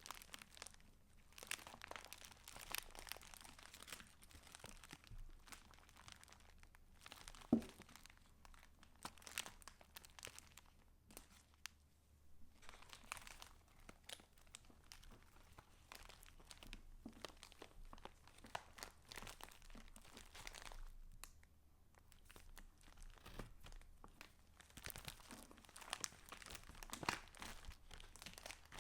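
Paper pages of a handmade junk journal rustling and crinkling softly as they are handled and turned, with a sharper tap about seven and a half seconds in.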